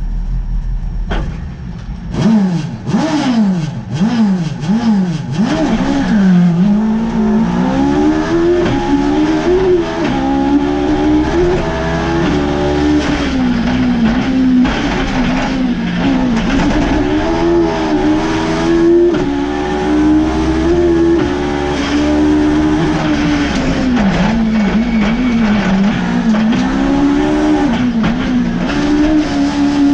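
Suzuki Hayabusa GSX1300R inline-four motorcycle engine in a lightweight Toyota KP61 Starlet, heard from inside the car on a hill-climb run. After about two seconds it starts revving hard with quick rises and falls, then runs at very high revs, rising and dipping repeatedly through gear changes.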